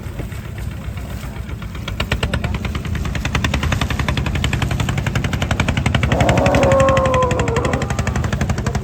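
An engine chugging with rapid, even knocks, about ten a second, that get louder about two seconds in. Near the end, a cow lows once with a slightly falling call over it.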